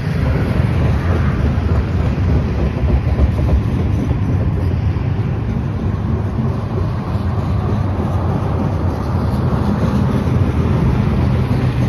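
Freight train of tank cars and covered hoppers rolling past: a steady rumble of steel wheels on the rails with a dense run of small clicks.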